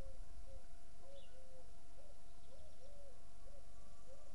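A bird calling a series of short, low hooting notes, about two a second, over a faint steady tone.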